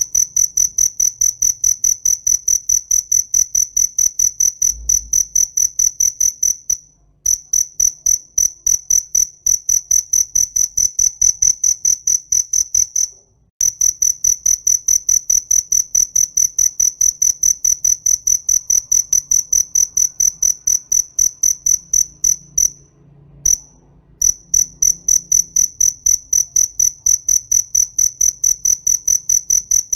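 A cricket chirping in a fast, steady, high-pitched train of about four chirps a second, breaking off briefly three times before starting again.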